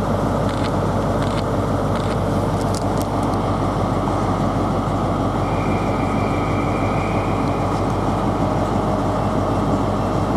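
Class 43 HST power car's MTU diesel engine idling at the platform: a loud, steady rumble and hum. A faint high whine comes in for a couple of seconds near the middle.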